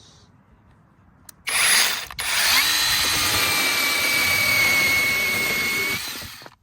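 Cordless brushless mini chainsaw running at full speed with a high steady whine. It starts about a second and a half in, stops briefly half a second later, then runs evenly and cuts off abruptly near the end.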